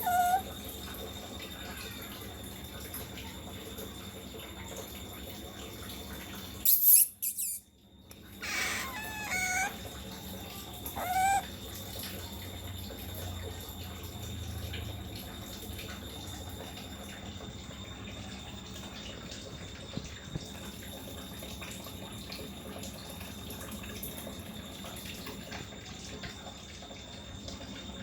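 Pet otter giving a few short, high-pitched squeaks that rise and fall, about nine and eleven seconds in, over a steady hiss. A brief loud burst comes about seven seconds in.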